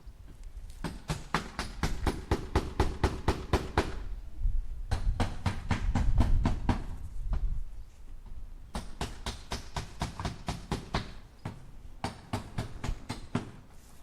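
Hammer tapping nails into wood in quick runs of strikes, about four or five a second. There are four runs with short pauses between them, and a low rumble under the second run.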